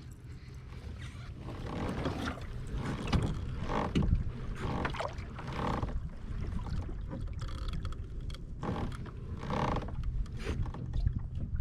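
Water swishing and sloshing around a kayak in irregular surges, over a steady low rumble.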